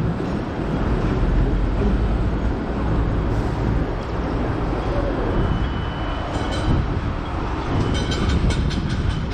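Hong Kong double-decker electric tram running along its street tracks: a steady low rumble of steel wheels on rail, with a brief high tone about five seconds in and a run of rattling clicks near the end.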